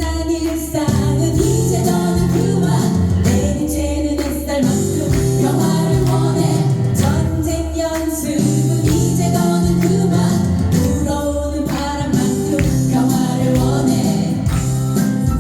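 Live band performing a song, with voices singing over the accompaniment.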